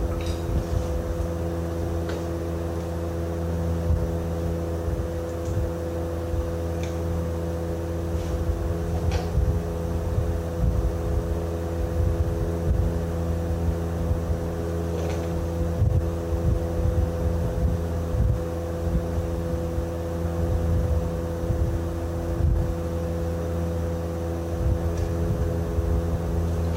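A machine running steadily: a low rumble under a constant hum, with a few faint clicks now and then.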